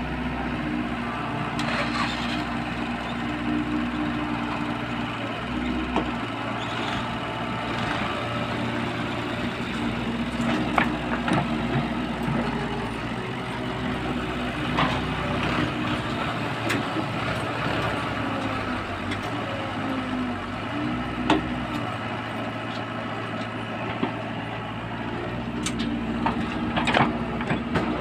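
Diesel engine of heavy earthmoving equipment running steadily, its pitch shifting slightly now and then, with a few scattered clanks and knocks.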